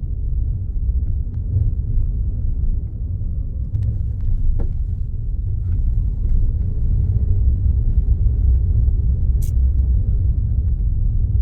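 Steady low rumble of a car on the move, heard from inside the cabin as road and engine noise, with a few faint clicks.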